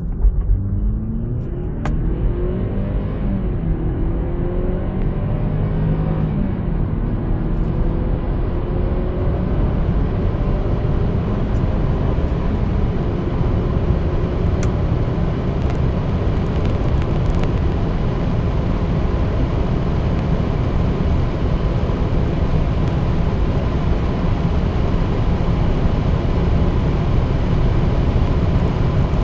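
Jaguar XF's 2.0-litre turbocharged four-cylinder EcoBoost engine accelerating hard from a standstill at full throttle, heard from inside the cabin. Its pitch climbs and falls back at each upshift of the eight-speed automatic over the first several seconds, then tyre and wind noise builds and takes over as the car nears 200 km/h.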